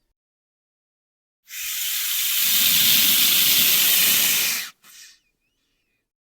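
Snake hissing: one long, loud hiss of about three seconds starting about one and a half seconds in, then a brief second hiss.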